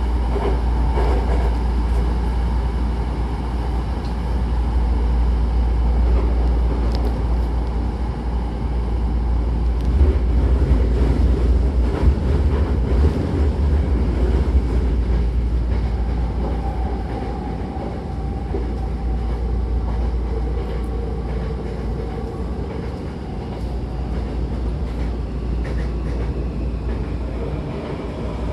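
Hankyu Takarazuka Line electric train running, with a steady low rumble and rail noise, and a few faint tones that drift in pitch. The sound is a little quieter in the second half.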